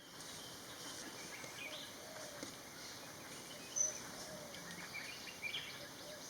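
Faint wild birds calling and chirping over a steady background hiss, with one sharper high-pitched chirp nearly four seconds in.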